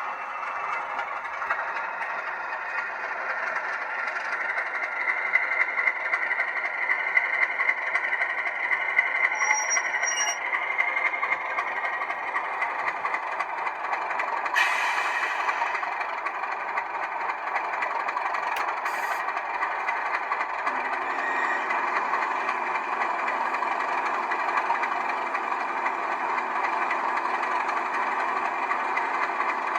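Class 37 diesel engine sound (English Electric 12CSVT V12) played through the small loudspeaker of an N gauge DCC sound locomotive, running steadily. A short hiss comes about halfway through, and a lower tone joins about two-thirds of the way in.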